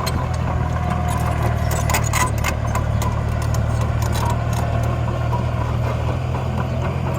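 An engine running steadily with a low hum, with scattered scrapes and knocks over it, as of soil and stones being pushed.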